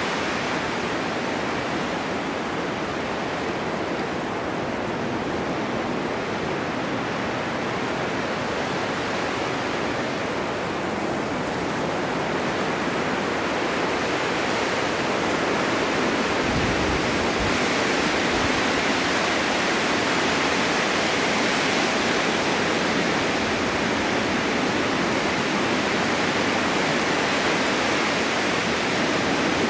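Snowstorm wind blowing steadily, a continuous rushing hiss that swells a little and grows brighter about halfway through, with a brief low rumble around the same point.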